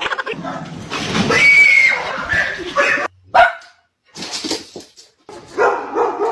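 Dogs barking and yelping in short bursts with brief pauses between them.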